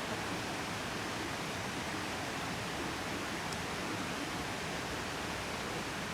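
Steady, even rushing of a flowing river.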